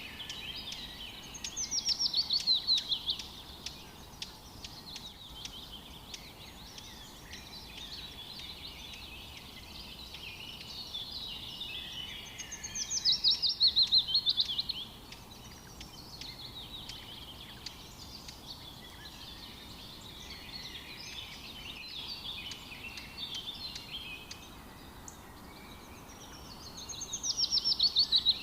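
Outdoor birdsong: one bird repeats a loud, fast descending trill about every thirteen seconds, three times, over a steady background of other birds chirping.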